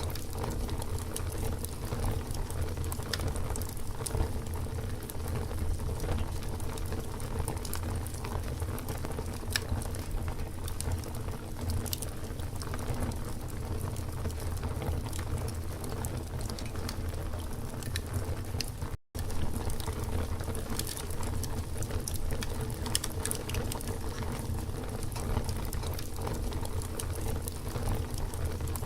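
Campfire burning, with frequent small sharp crackles and pops over a steady low rumble of the flames. The sound drops out for a split second about two-thirds of the way through.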